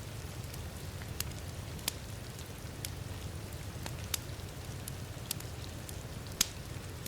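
Fireplace crackling with irregular sharp pops, about six in a few seconds, over a steady wash of heavy rain and a low rumble.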